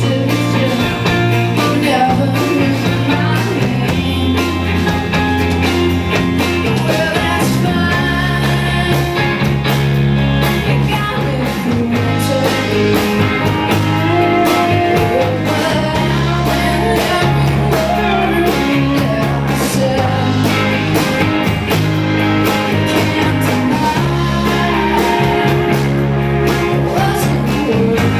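Live rock band playing a song: electric guitar, bass and drums, with singing.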